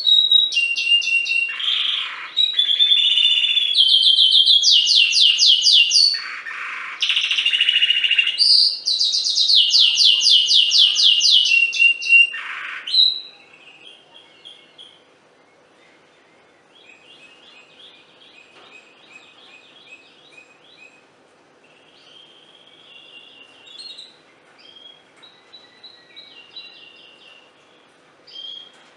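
Domestic canary singing: loud, rapid trills and rolls of repeated notes for about the first thirteen seconds, then the song drops to a much softer run of short trills.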